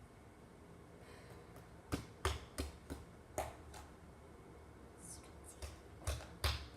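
Slime being squeezed and poked in the hands, giving a string of sharp clicking pops in two bursts.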